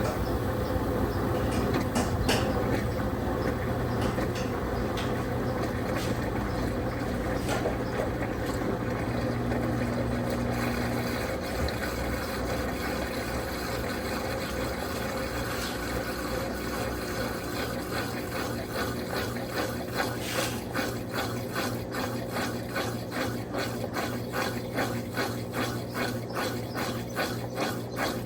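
Electrolux Turbo Capacidade Premium 15 kg top-loading washing machine running with water in the tub: a steady motor hum at first, then from about two-thirds in a regular swishing beat about twice a second as the agitator drives the wash back and forth.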